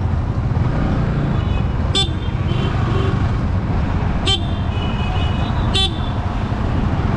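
Steady low rumble of wind and a Yamaha R15 V3 motorcycle riding on the road, with several short horn toots at about two seconds in and again between four and six seconds in.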